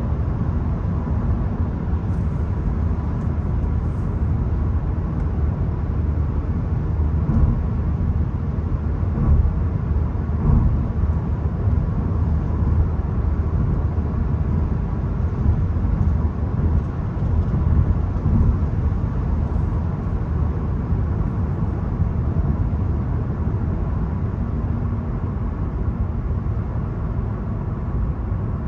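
Volkswagen Golf 1.0 TSI's three-cylinder turbo petrol engine and tyre noise while driving, a steady low rumble with no marked revving.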